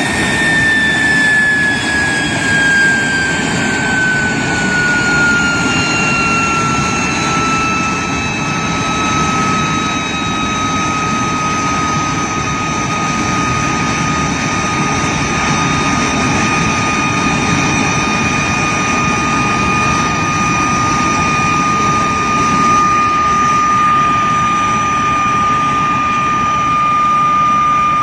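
de Havilland Vampire's Goblin turbojet running on a ground run: a loud roar with a strong high whine. The whine falls in pitch over the first several seconds as the engine slows, then holds steady at a lower speed.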